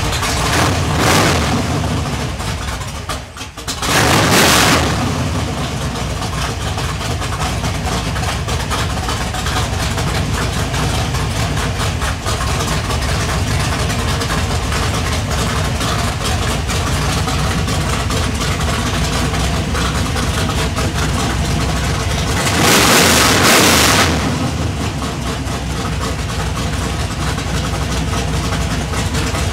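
Mopar 400 big-block V8 stroked to 451 cubic inches, running on open headers with no mufflers. It idles steadily and is revved twice, briefly about four seconds in and again for about a second and a half near twenty-three seconds.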